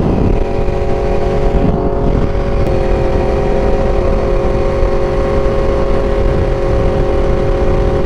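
Aprilia RSV4 V4 engine running at a steady cruise under wind noise, the engine note holding one pitch with a slight shift about two and a half seconds in.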